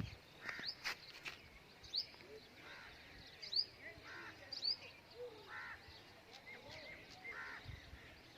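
Birds calling: short rising chirps come every second or so, mixed with some lower calls, and a few sharp clicks in the first second or so.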